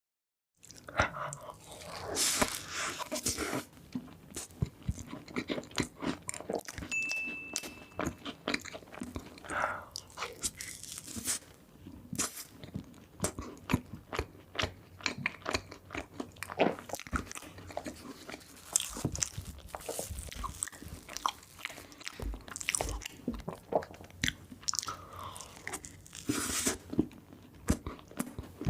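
Close-miked eating of a chocolate cupcake: bites and chewing with crunching and many small wet mouth clicks, in an irregular rhythm.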